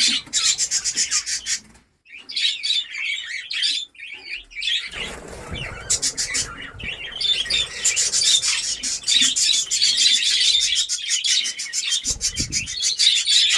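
A colony of budgerigars chirping and chattering, many high calls overlapping. It breaks off briefly about two and four seconds in, and a low rumble runs under the chatter about five seconds in and again near the end.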